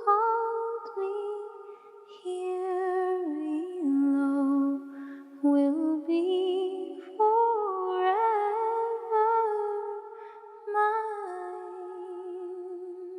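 Layered a cappella voices humming the hymn tune in sustained chords with vibrato, ending on a long held chord.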